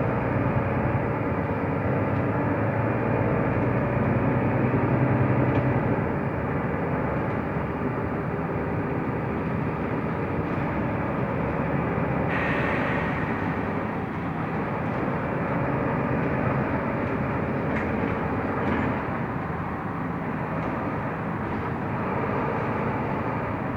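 Mercedes-Benz O345 Conecto LF city bus under way, its diesel engine and road noise heard from inside the cabin. The engine gets louder for a few seconds about three seconds in, and a brief higher-pitched sound comes about halfway through.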